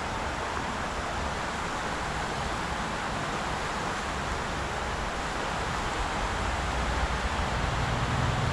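Steady rush of a mountain river's flowing water, with a low rumble building near the end.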